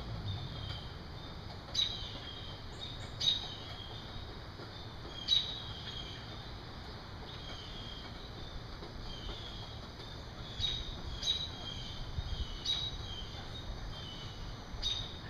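Blue jays calling after rain: about seven short, harsh calls at irregular intervals, with a pause in the middle, over steady faint chirping from other birds or insects.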